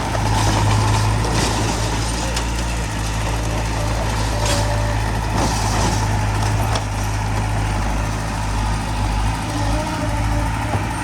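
Diesel engine of heavy earthmoving equipment running steadily under a strong low hum, with scattered metallic clanks and knocks as stone is handled.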